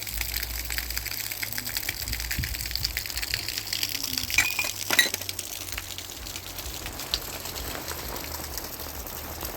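Rain falling: a steady hiss with a dense patter of drops, and two sharper clicks about halfway through.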